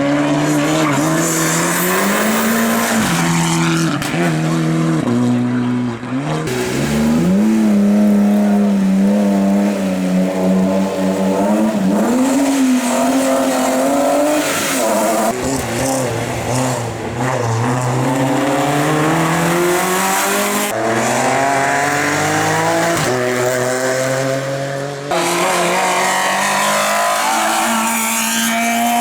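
Racing car engines revving hard on a hillclimb: the pitch climbs through each gear, drops at the shifts and lifts, then climbs again, with tyre squeal at times. The sound breaks off and changes abruptly a few times.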